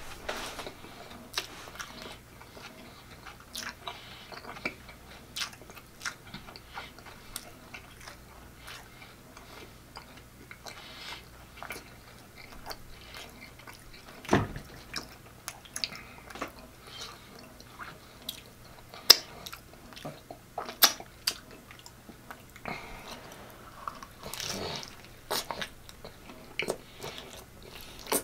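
A person chewing a soft barbecue pork-chop taco, with wet mouth smacks and clicks at irregular intervals and a few sharper smacks about halfway through and in the latter part.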